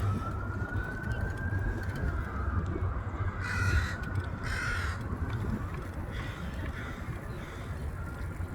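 A crow cawing twice, two harsh calls about a second apart, over a steady low rumble.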